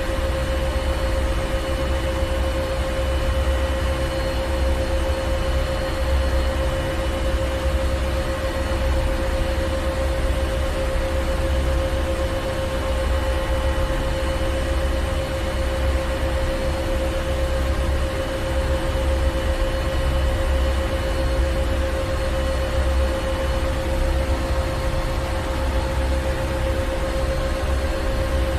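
Ship's engine room: heavy machinery running steadily, a deep constant rumble under a droning hum with several steady tones and a hiss of noise above. It does not change.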